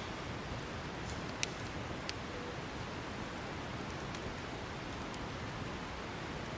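Wood fire burning with a steady hiss and a few sharp crackles, the loudest two about a second and a half and two seconds in.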